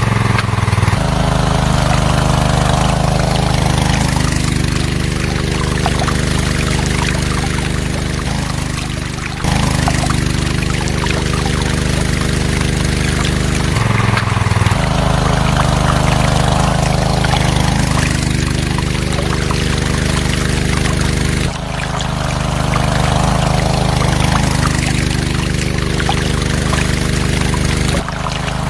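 Mini water pump running with a steady low engine-like hum while water pours and splashes; the sound breaks off briefly and restarts a few times.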